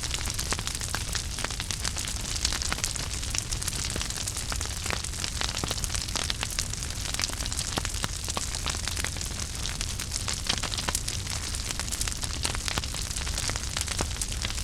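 Wood fire burning in a fireplace: a steady low rumble and hiss of flames with dense, irregular crackles and small pops throughout.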